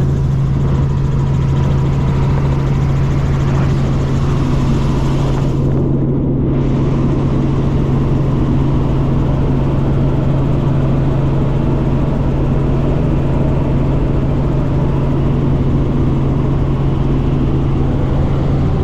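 Robinson R44 helicopter's engine and rotors running in steady cruise, a loud constant drone with a strong low hum, heard inside the cabin. The high hiss briefly drops away about six seconds in.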